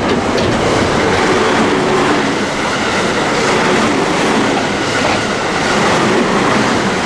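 Electric train running through the station, a loud steady rumble of wheels on the rails.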